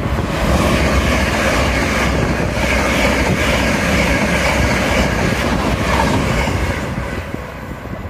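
Great Northern electric multiple-unit train passing close by: a loud, steady rush of wheels on rail, easing off near the end as it moves away.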